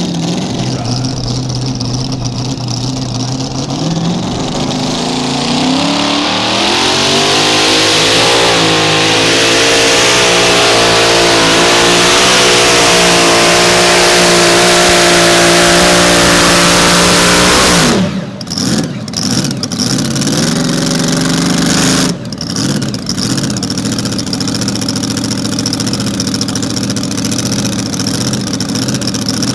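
Mini Rod pulling tractor's engine idling, then revving up through the gears into a sustained full-throttle run for about ten seconds. It cuts off abruptly about two-thirds of the way through, then gives a few short revs and settles back to a lower running note.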